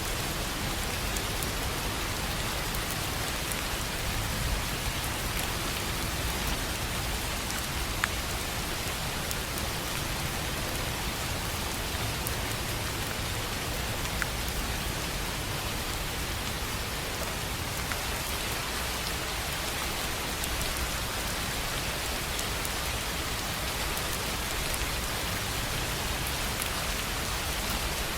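Steady rain falling on a tin roof, with now and then a single louder drop hit.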